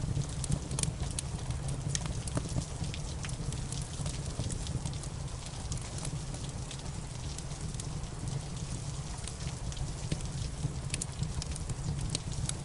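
Wood fire crackling with irregular sharp pops, over steady rain and a constant low rumble.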